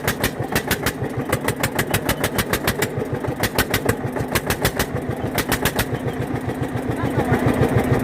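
Eicher 241 tractor's single-cylinder diesel engine running slowly and steadily, each firing stroke a separate beat at about seven a second.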